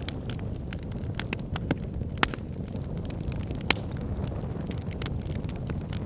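Bonfire burning: a steady low roar of flames with frequent sharp crackles and pops of burning wood, two louder pops a second and a half apart near the middle.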